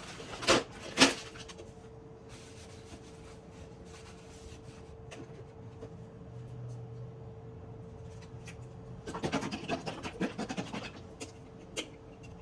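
Kitchen handling noises: two sharp knocks about half a second apart, then a steady hum, and about nine seconds in a run of clattering and scraping.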